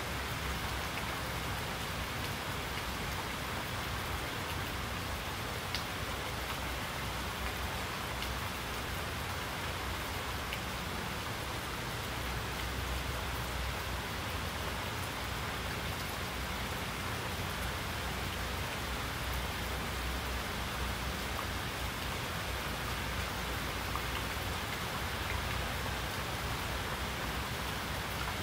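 Steady rain falling, an even hiss of many drops, with a few single drops ticking now and then.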